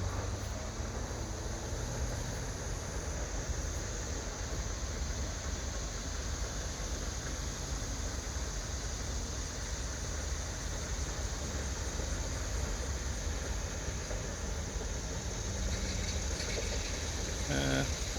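Steady low rumble with a faint hiss of outdoor background noise, without distinct events.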